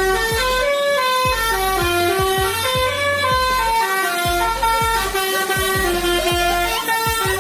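Musical truck horn playing a tune in quick stepped notes, over a thumping drum beat.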